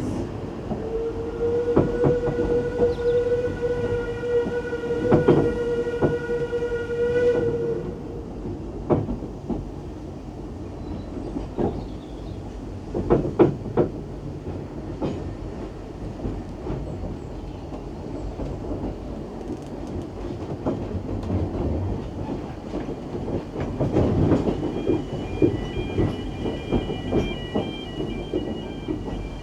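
A steam locomotive's whistle blows one long steady note lasting about seven seconds, over the running clatter and knocks of wooden coaches on the rails. Near the end a thinner, higher tone comes and goes above the rail noise.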